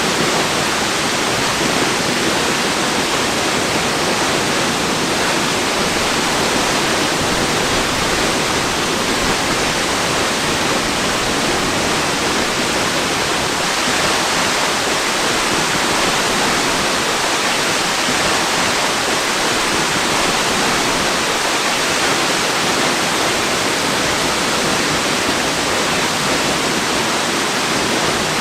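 Waterfall pouring steadily: an even rush of falling water that does not change.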